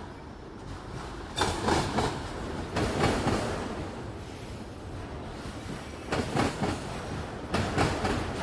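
Railroad cars rolling past, their wheels clacking over the rail joints in loud groups every second or two over a steady rumble.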